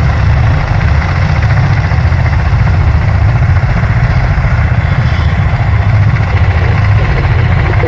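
Marine Corps V-22 Osprey tiltrotors running on the ground, their turboshaft engines and proprotors making a loud, steady low rumble with a hiss above it.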